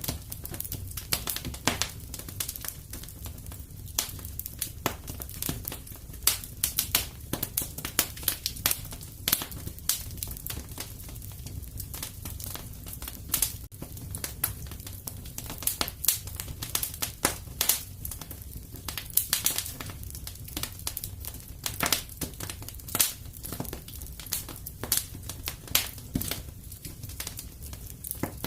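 Wood fire crackling in a fireplace: dense, irregular sharp pops and snaps over a low, steady rumble.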